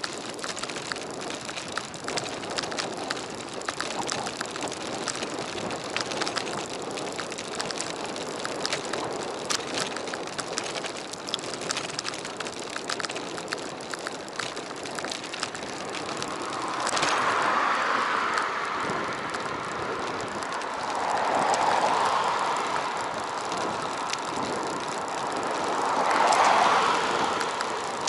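Bicycle ride heard through a handlebar or body-mounted action camera: steady road and wind noise with a constant patter of small rattling clicks. In the second half the noise swells three times, a few seconds apart.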